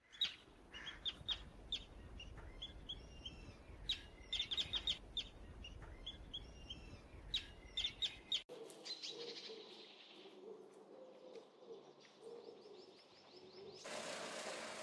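Small birds chirping in quick, repeated calls. About eight seconds in, the sound cuts to a quieter bed with faint chirps and a low wavering tone, and near the end a steady hiss begins.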